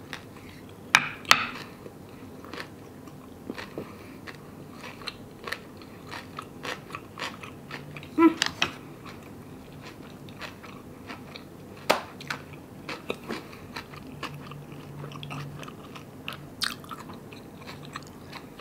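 Someone chewing a mouthful of kimbap, a seaweed-wrapped rice roll, with scattered crunches and wet clicks of the mouth. The loudest come about a second in, about eight seconds in and about twelve seconds in.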